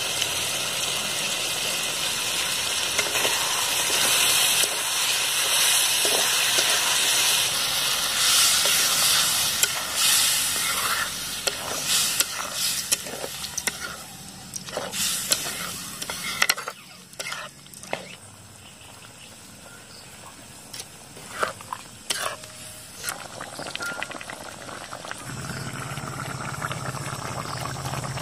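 Chicken curry frying in hot oil in a steel kadai. A loud sizzle starts suddenly and fades after about ten seconds. Then a metal spatula scrapes and clicks against the pan as the curry is stirred, and a steady low sound sets in near the end.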